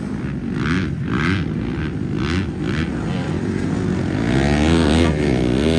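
Motocross bike engines running on the track, revving up and down. From about four seconds in, one bike gets louder, its engine note rising and falling with the throttle.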